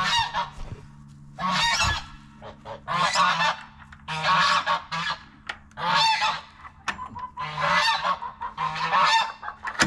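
Domestic geese honking loudly and repeatedly, about seven separate honking calls spaced a second or so apart.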